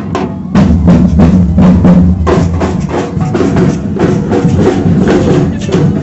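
A marching band's drums, bass and snare, beating a fast, steady rhythm.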